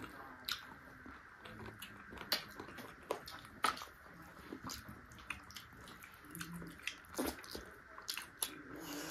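A person biting and chewing chicken feet: irregular wet clicks and small crunches.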